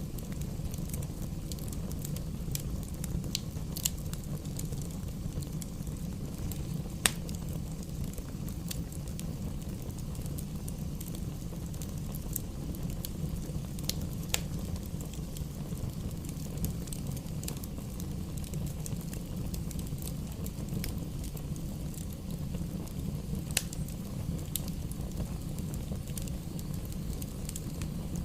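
Campfire burning with a steady low rumble and scattered sharp crackles and pops of burning wood; the loudest pop comes about seven seconds in.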